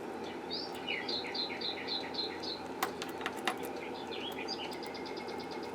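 A small bird chirps a quick series of repeated notes, then a few more chirps, over a steady background noise. Two sharp clicks come about halfway through.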